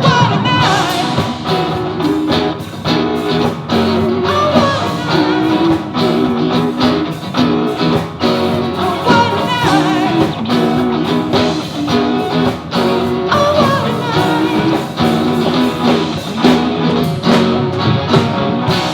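Rock band playing, with electric guitar to the fore over a steady drum beat and some singing.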